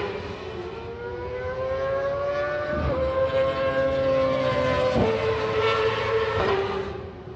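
High-displacement racing motorcycle engine accelerating hard: the pitch climbs through each gear and drops at the shifts about three and five seconds in, with a smaller drop later, before the sound fades near the end.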